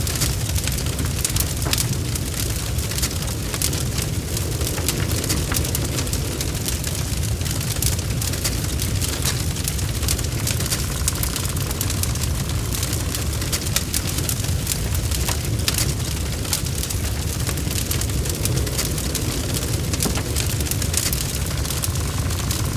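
Wood fire in a fireplace crackling, with many small irregular pops and snaps over a steady low rumble.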